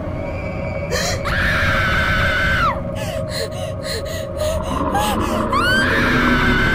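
A high-pitched voice squealing twice, each squeal held for a second or more and dropping off at the end, with quick clicking sounds between the two.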